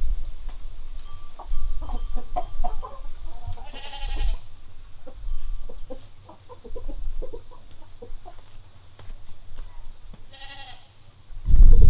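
Chickens clucking in short, scattered calls, with two louder drawn-out calls, one about four seconds in and one near the end. A loud low rumble starts just before the end.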